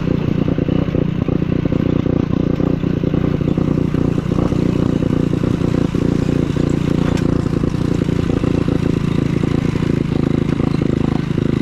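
150cc scooter engine running steadily while being ridden, at an even pitch and level.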